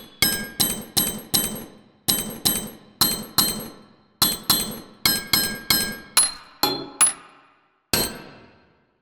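Drum-kit samples played in a steady rhythm, about two and a half hits a second: sharp clanking hits with a metallic ring, in groups of four. The last single hit comes near the end.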